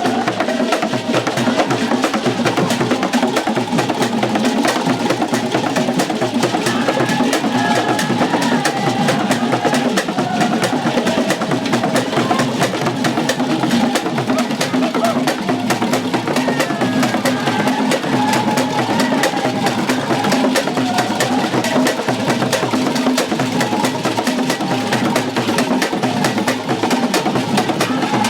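Percussion music with drums and a rapid, steady clicking beat, loud throughout, with some sustained pitched tones running over it.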